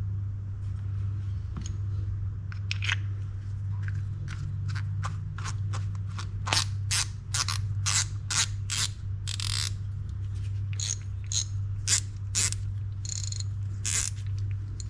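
Small metal reel parts being handled and worked on the bench: a run of short, irregular scraping and clicking strokes, a few longer scrapes among them, over a steady low hum.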